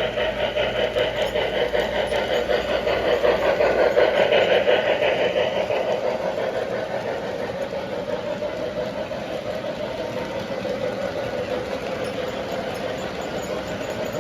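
Model train running on the layout track, with a rapid clatter of wheels and motor; it grows loudest about four seconds in as it passes close, then fades as it moves away.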